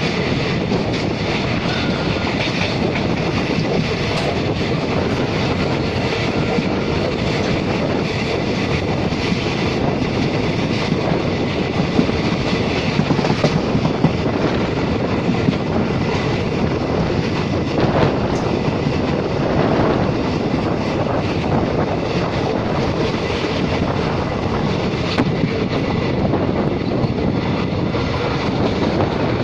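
Passenger train of ICF coaches running steadily at speed: the rumble and hiss of steel wheels on the rails, with occasional clacks over rail joints.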